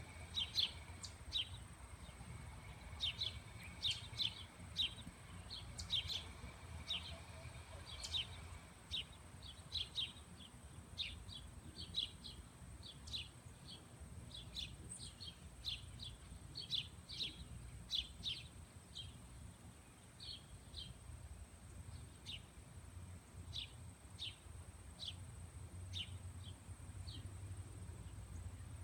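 Small birds chirping: many short, high chirps, several a second at first and thinning out after about halfway, over a steady low background rumble.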